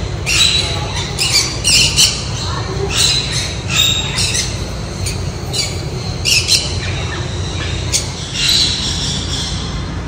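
Birds squawking: a string of short, harsh calls repeating irregularly, over a steady low hum.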